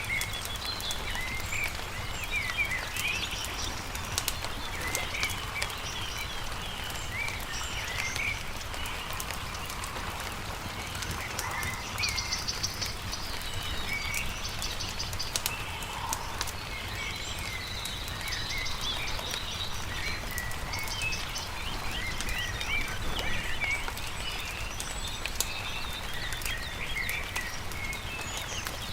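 Songbirds chirping and calling continuously, with a short rapid trill a couple of times, over the sharp pops and clicks of a crackling wood campfire and a steady low hum.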